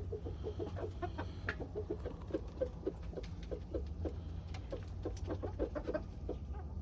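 Chickens clucking softly, a steady run of short low clucks several times a second, with faint light clicks among them.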